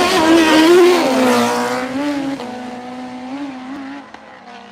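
Drag-racing motorcycle engines running at high revs down the track, loud at first and fading steadily as the bikes pull away, with the pitch wavering and stepping through gear changes.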